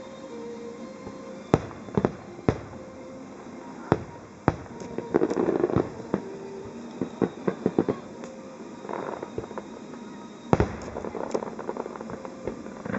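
Aerial firework shells bursting. Single sharp bangs come about every second at first, then dense clusters of rapid crackling pops follow, and a large bang near the end sets off more crackle.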